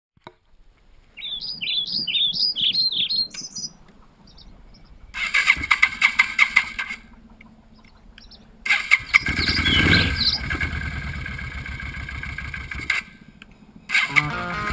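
Birds chirp briefly. Then a V-twin cruiser motorcycle engine is started: the starter rattles for a couple of seconds, and after a pause the engine runs for about four seconds before stopping. Music begins near the end.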